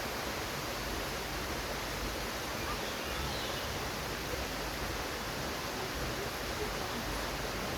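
Steady rush of flowing or falling water, an even hiss without breaks or pauses.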